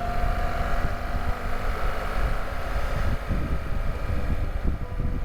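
Motorcycle running on the road, with a steady engine note under heavy wind rush buffeting the microphone.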